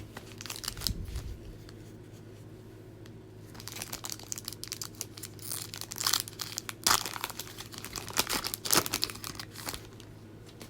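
A plastic trading-card pack wrapper being torn open and crinkled by hand. There is a brief run of crackling near the start, then a longer spell of crinkling and tearing with sharper crackles in the second half.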